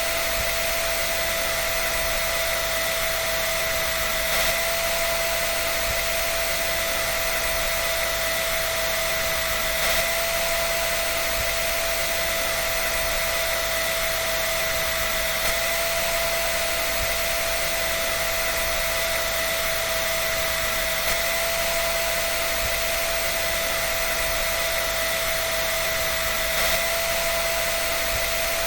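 Hair dryer running continuously: a steady rush of air with a constant motor whine, unchanging throughout.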